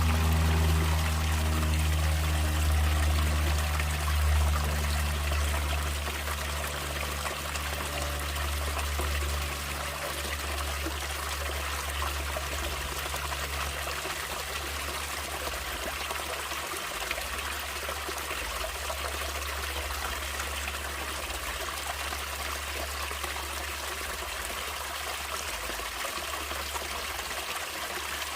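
Stream water trickling and flowing in a steady, even rush. Low sustained music underneath fades out over the first ten seconds or so.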